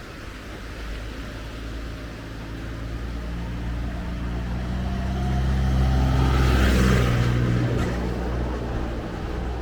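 A motor vehicle passing close by: its engine grows louder, is loudest about two-thirds of the way through, then fades.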